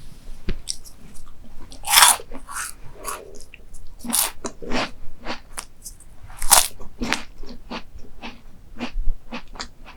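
A person biting and chewing crunchy dessert close to the microphone: irregular crisp crunches and wet chewing clicks, with louder bites about 2, 4 and 6.5 seconds in.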